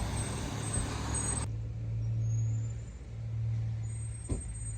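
Low, steady rumble of a car running at low speed. A noise haze cuts off abruptly about a second and a half in, and the hum carries on with slow swells; a faint click comes near the end.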